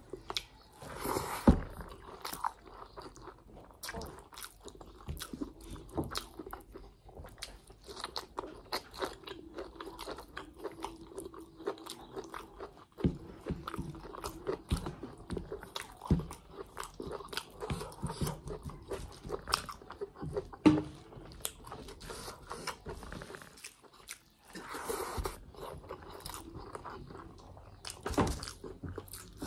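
Close-up eating sounds of a person chewing chicken liver, gizzards and rice: a steady run of irregular wet clicks and crunches from the mouth.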